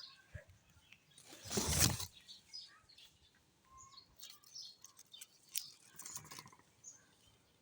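Scattered short bird chirps and calls, with a loud rushing noise for about half a second near the start.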